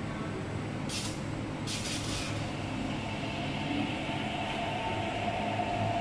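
Interior of an MTR R-Train electric multiple unit pulling away, with steady running rumble. Two short air hisses come about one and two seconds in, and a traction-motor hum builds from about three seconds as the train gathers speed.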